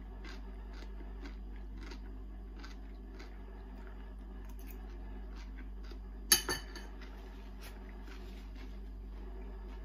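Close-up mouth sounds of someone chewing grated carrot salad, with small soft crunches about once a second over a steady low hum. About six seconds in there is one sharp clink, much louder than the chewing.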